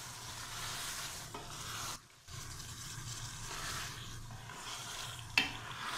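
Chicken and chickpeas being stirred in an aluminium pot as they fry, with a steady sizzle and the scrape of stirring. The sound dips briefly about two seconds in, and a sharp knock stands out near the end.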